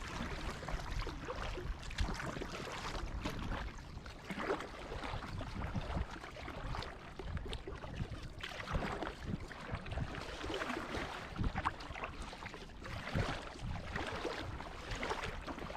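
Water sloshing and splashing around a small kayak in light chop, with irregular knocks and wind rumbling on the microphone.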